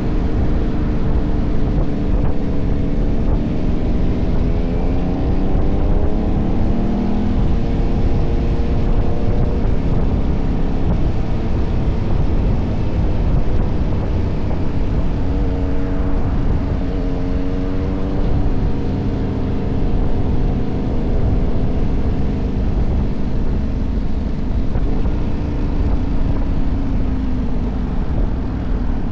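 KTM 1190 Adventure's V-twin engine running under way with a heavy low rumble of wind and road noise, its pitch rising as the bike accelerates about two seconds in and again about halfway through, then holding steady.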